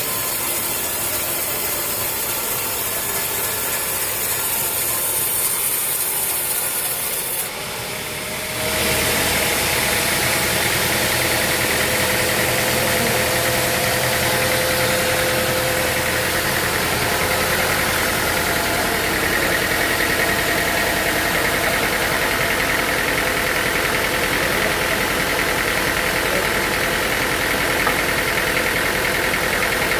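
Sawmill machinery running: a steady sawing, rasping noise breaks off briefly about a quarter of the way in. It gives way to a louder, even engine drone with a steady whine.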